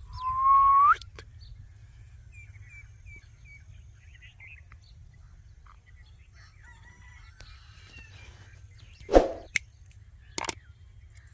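A bird gives one loud whistled call, rising in pitch and lasting about a second, followed by faint scattered chirps. Near the end come two sharp knocks.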